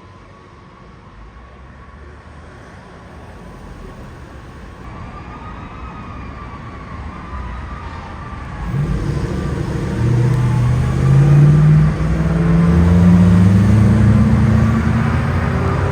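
A fire truck's siren wailing faintly, then growing louder as the truck approaches. About nine seconds in, its heavy diesel engine comes up loud and rises in pitch as it accelerates past.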